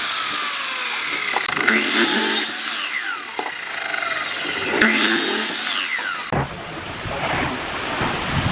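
Handheld power tool working wood in repeated passes, its motor pitch sliding down each time it bites in. About six seconds in, the sound cuts abruptly to a low rumbling noise.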